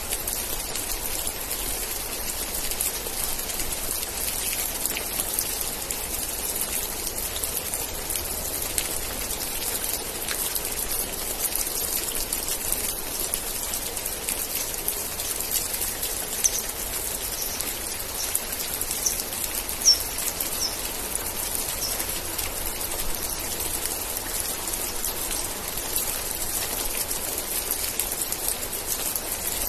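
Steady rain falling, a dense even hiss with many small drop ticks. About halfway through, a handful of short high chirps sound over it, one of them briefly louder.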